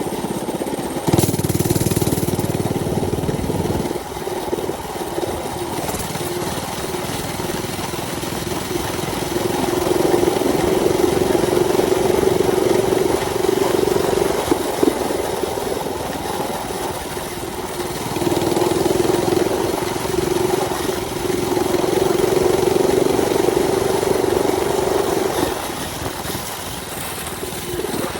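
Mini bike's small engine running while being ridden, its revs rising and held twice, about ten seconds in and again about eighteen seconds in. Wind noise buffets the microphone for a few seconds about a second in.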